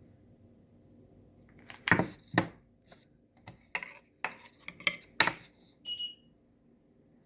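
Small hard objects clacking and tapping on a work table while crafting: about eight sharp knocks over three seconds, then a brief high squeak.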